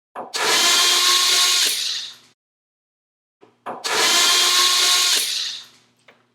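Power drill with a 1/4-inch nut driver bit spinning, backing screws out of a bathroom exhaust fan's sheet-metal housing. It runs in two steady bursts of about two seconds each, with a pause between them.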